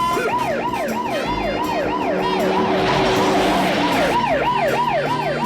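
Police car siren sound effect wailing in quick rising-and-falling sweeps, about three a second, with a hissing rush around the middle.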